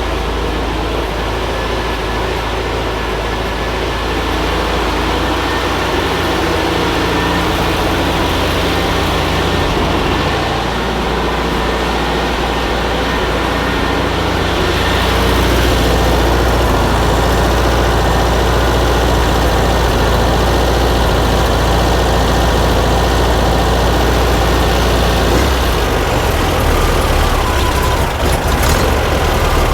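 Freshly rebuilt air-cooled flat-four engine of a 1950s VW bus idling steadily while its idle is being set. About halfway through it runs a little louder and fuller, then holds there.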